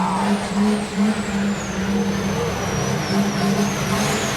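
Monster truck engine running loud at a fairly steady pitch, with a thin high whine that rises and falls above it.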